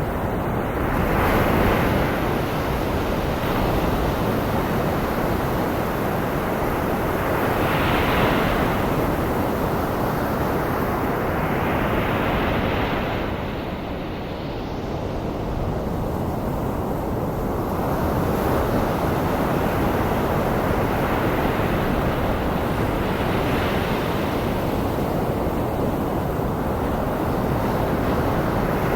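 Ocean surf mixed with a steady bed of white noise: waves wash in and recede in slow swells every few seconds, with a lull about halfway through.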